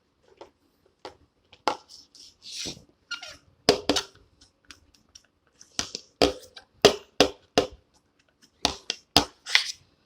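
Air pump being worked by hand: a series of irregular sharp clacks with short puffs of hissing air. The squeak is gone now that baby oil has been worked into the pump's creases.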